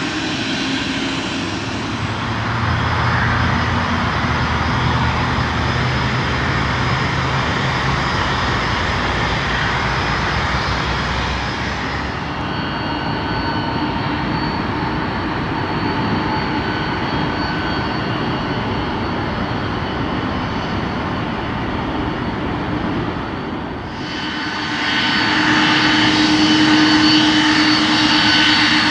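Airliner engines running with a steady roar and a thin whine over it. The sound changes abruptly twice, about a third and about four-fifths of the way through.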